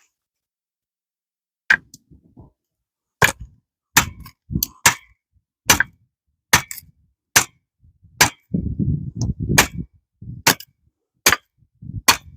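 Firewood being split by hand: about a dozen sharp chopping strikes into a log, unevenly spaced at roughly one a second, beginning about two seconds in. Between some strikes there is a low rumbling scrape as the wood starts to split apart.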